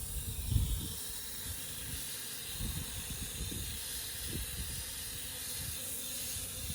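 Garden hose spraying a steady, hissing stream of water, rinsing spilled sugar water off the ground.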